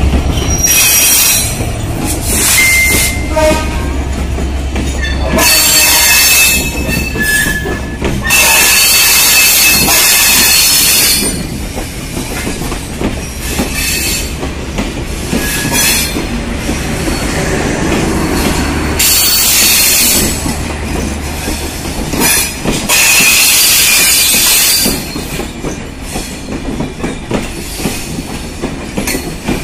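A passenger train leaving the station close by. The diesel locomotive's low engine hum fades within the first five seconds. The coaches then roll past, their wheels clicking over the rail joints, with several bursts of high-pitched wheel squeal that each last one to three seconds.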